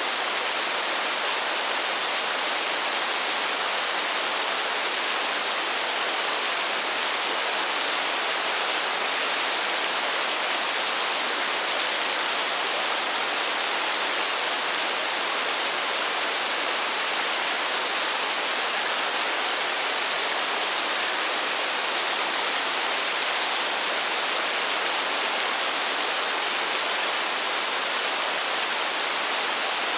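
Steady rain falling in a forest: an even, unbroken hiss of rain with no single drops standing out.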